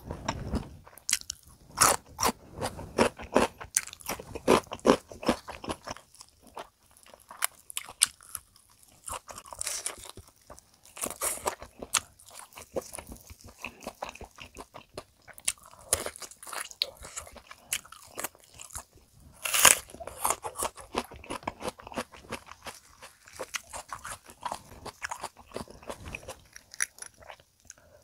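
Crispy fried chicken being bitten and chewed: repeated crackling crunches of the fried coating, irregular throughout, with the loudest crunch about twenty seconds in.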